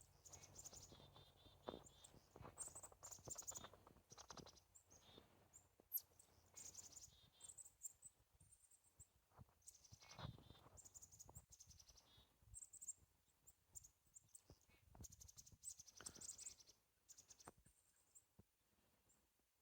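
Songbirds calling at evening, faint: short, high chirps and trills that come and go throughout.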